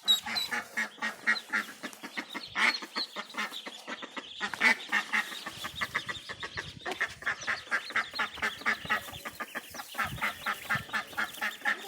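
Ducks calling, a dense, unbroken run of quick, repeated quacks.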